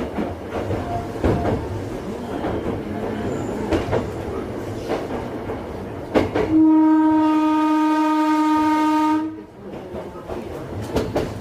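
Choshi Electric Railway 2000 series train running, heard from inside the car, wheels clicking over rail joints. About six and a half seconds in, the train's horn sounds one steady note for nearly three seconds and cuts off.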